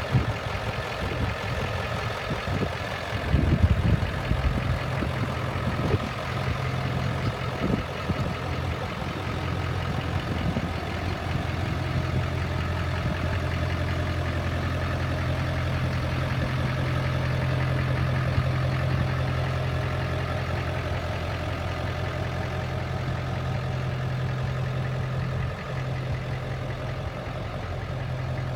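Ford F-350's 7.3-litre V8 engine idling steadily, with a few thumps in the first several seconds.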